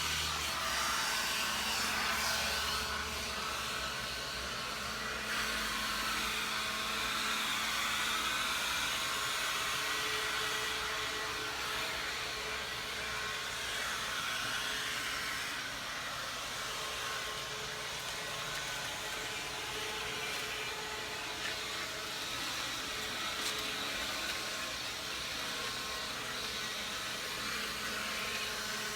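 Electric leaf blower running steadily, a constant whooshing motor hum, during the final cleanup of the patio.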